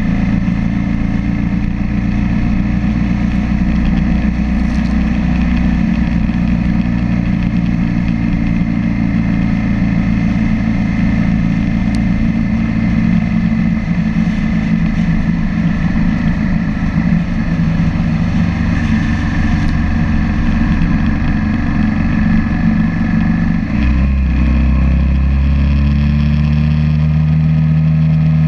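BMW F650 GS motorcycle engine running steadily under way. Near the end the engine note drops suddenly, then climbs steadily as the bike pulls again.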